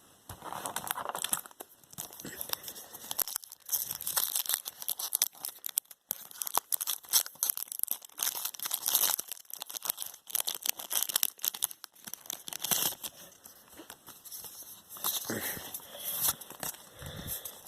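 Packaging being torn open and crinkled by hand: a dense, irregular run of tearing, rustling and crackling throughout.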